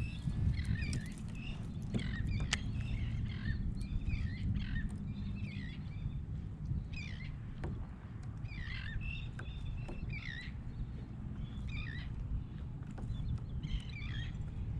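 Birds calling again and again in short, falling chirps, over a steady low rumble, with a few faint clicks.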